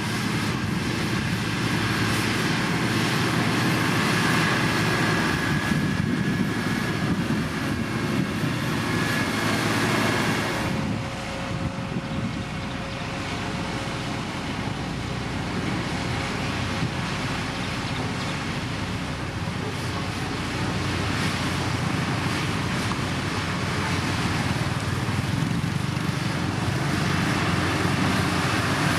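Heavy road-building machinery's diesel engine running steadily under work. About eleven seconds in, the sound gets a little quieter and a steady tone comes in.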